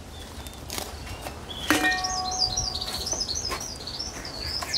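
A small songbird chirping a fast, continuous run of high, zigzagging notes, starting about two seconds in. Just before it comes a knock that rings briefly with a steady tone.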